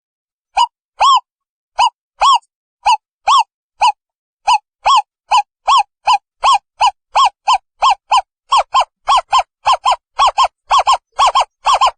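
Owl calling: a series of short hoots, each arching up and down in pitch, repeated faster and faster, from about two a second to about four a second.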